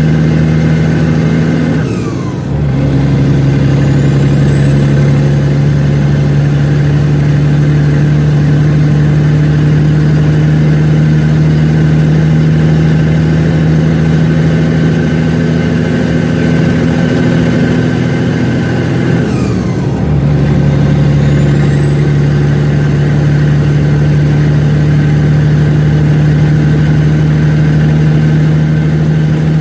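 Loaded semi truck's turbocharged diesel engine pulling steadily, with a high turbo whistle. The driver shifts up twice, about two seconds in and again about twenty seconds in. Each time the turbo whistle falls away, the engine briefly eases, then the whistle climbs again as the turbo spools back up.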